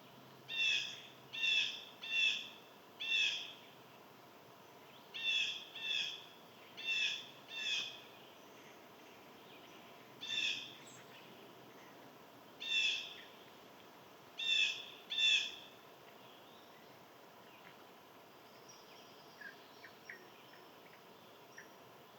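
A bird giving a series of short, harsh, repeated calls: four in quick succession, four more after a pause, then single calls and a final pair. After that come a few faint chirps.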